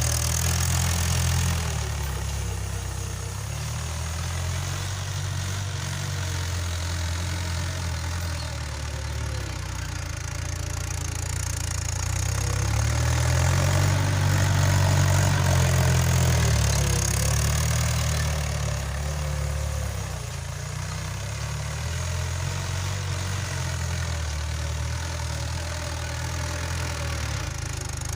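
Tractor engine running steadily while ploughing a field, growing louder about halfway through and then easing off again.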